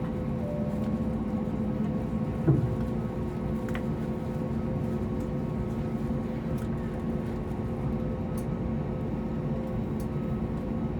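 Steady cabin hum of an Airbus A321neo standing or moving slowly on the ground, with several fixed tones running through it. About two and a half seconds in there is a single thump, and a new steady tone joins the hum right after it.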